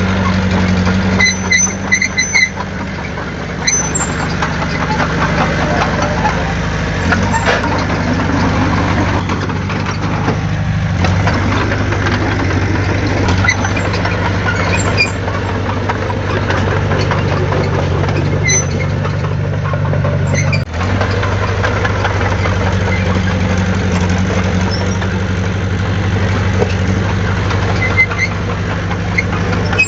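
Heavy diesel engine of earthmoving machinery running steadily, with short high squeaks now and then.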